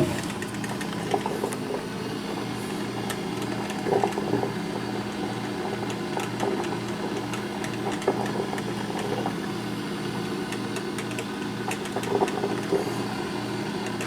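Black & Decker thermal carafe drip coffee maker brewing: a steady hum with a fast, even pulsing under it, and a few short louder bursts about every four seconds.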